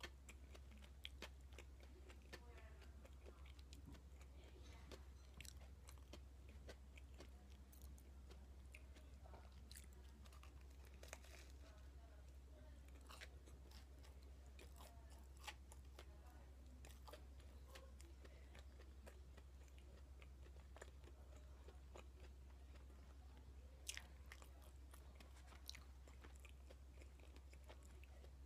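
Faint close-up chewing of potato-salad toast: soft wet mouth sounds with many small sharp clicks and crunches of the toast, a few of them louder, one near the middle and another near the end. A steady low hum lies underneath.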